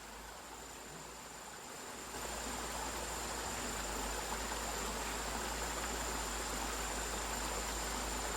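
Steady high-pitched insect chirring over an even rushing hiss that grows louder about two seconds in.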